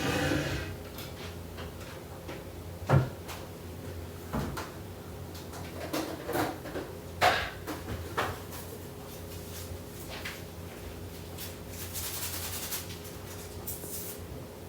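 Scattered knocks and clicks of kitchen things being handled, the sharpest about three seconds in and a cluster between six and eight seconds, over a steady low hum. A brief hiss comes near the end.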